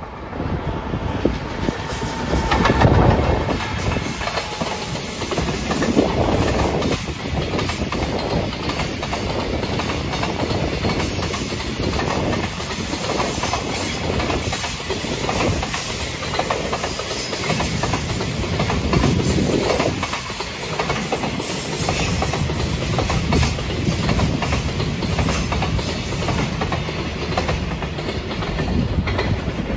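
JR Freight container train passing close by behind an EF210 electric locomotive. The locomotive goes by about three seconds in, the loudest moment. Then a long line of container wagons rolls past with steady clickety-clack of wheels over the rail joints.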